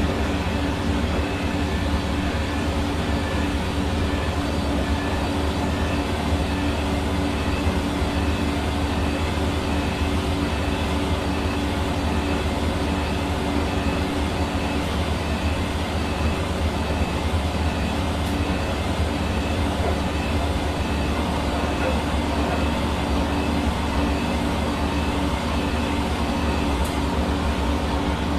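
Hair dryer running steadily: an even rush of air over a constant motor hum, with no change in speed.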